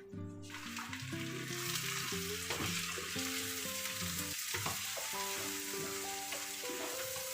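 Food sizzling as it fries in a hot pan, starting about half a second in, over soft background music.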